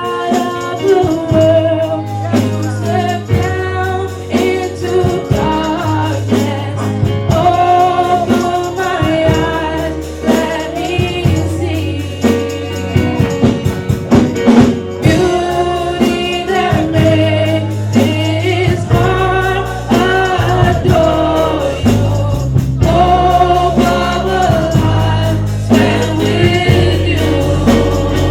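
Gospel music with voices singing together over a steady bass line, with tambourine.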